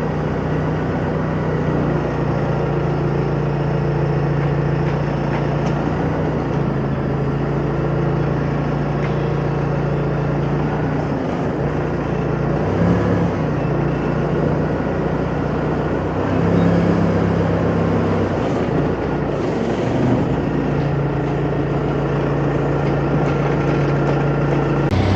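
Heavy vehicle engine running steadily close by, idling, with its note dipping and shifting briefly a few times, about halfway through and again some seconds later.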